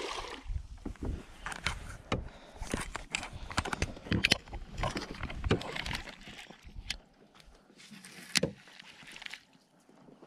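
Irregular knocks, clicks and rustling from handling aboard a fishing kayak, with no steady rhythm.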